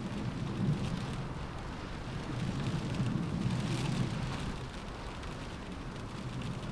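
Rain falling on a window in a windstorm: a steady rush of rain with small drop ticks, and a low rumble of wind that swells twice, about half a second in and again midway.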